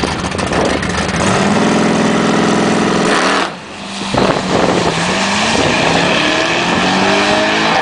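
High-performance car engine held at high revs for a couple of seconds, dropping off briefly, then its pitch climbing steadily as the car accelerates.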